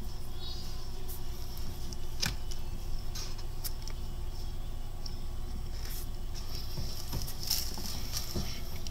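A person chewing fried chicken close to the microphone: wet mouth sounds with scattered short clicks and crunches, over a steady low hum.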